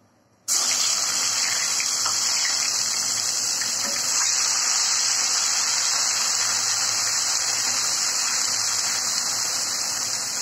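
Fried-onion paste dropped into hot oil with whole spices, bursting into a sizzle about half a second in and then frying with a steady, loud hiss as it is stirred in the pan.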